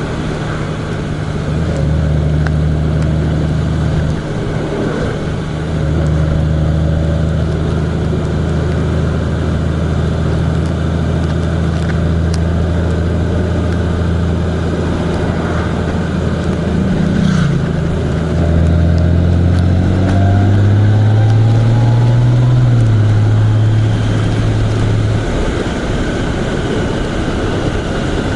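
A vehicle's engine running steadily on the move, with road and wind rush. The engine pitch steps up and down several times, rising past the middle and dropping again after about 23 seconds.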